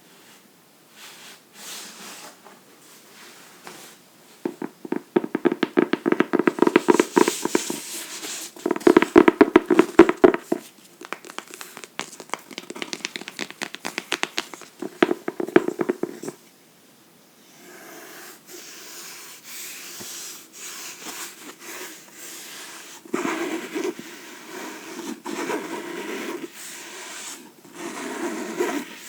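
Fingers scratching and tapping on a book: fast runs of crisp clicks in the first half, then a brief pause, then softer, steadier scratching and rubbing.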